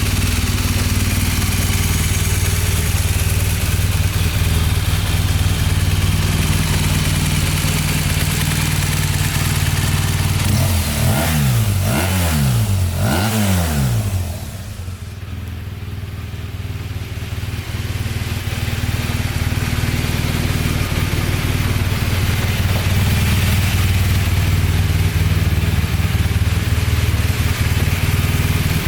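BMW R1200RT boxer-twin motorcycle engine idling steadily. About halfway through the throttle is blipped three times in quick succession, then it settles back to idle.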